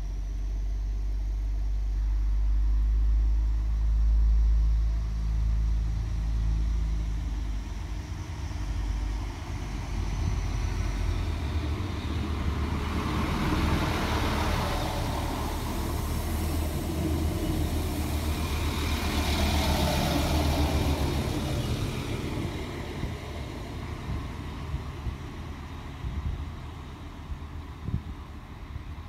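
Diesel regional multiple unit pulling out: its engines run with a strong, steady low drone as it gathers speed, then wheel and rail noise swells as the train passes close by through the middle and fades as it runs away.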